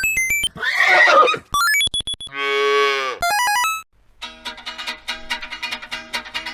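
Quick runs of electronic beeping tones alternate with two short animal calls, the second a drawn-out lowing sound falling slightly in pitch. About four seconds in, background music with quick plucked notes takes over.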